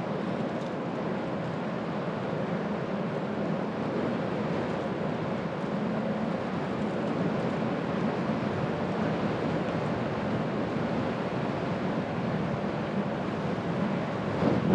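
Steady rolling and wind noise of a bicycle ride, with tyres on the path and air rushing over the camera microphone. It gets louder and rougher near the end.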